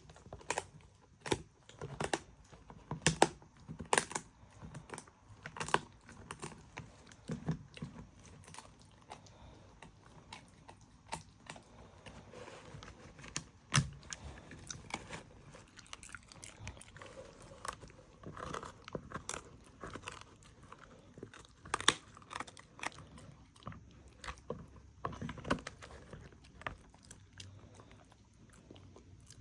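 A dog chewing and crunching food close to the microphone, with irregular sharp crunches and bites.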